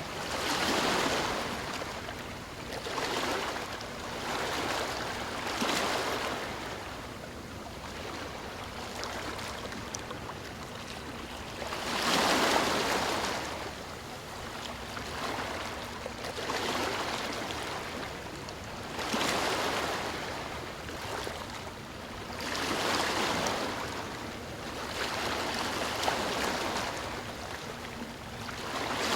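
Ocean waves breaking and washing ashore, a hissing surf that swells and fades every few seconds, with the biggest wave about twelve seconds in.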